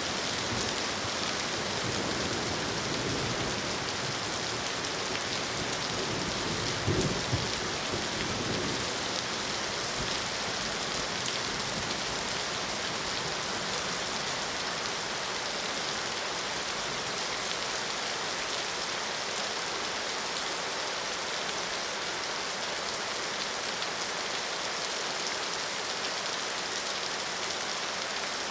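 Steady heavy rain falling on surfaces, an even hiss. In the first several seconds there are low rumbles, the loudest a short one about seven seconds in.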